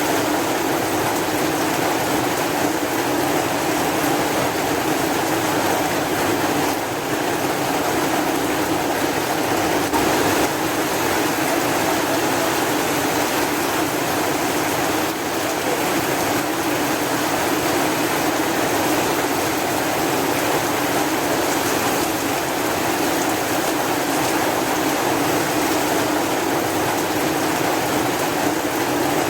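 Steady rain falling: an even, unbroken hiss with no thunder or single loud drops standing out.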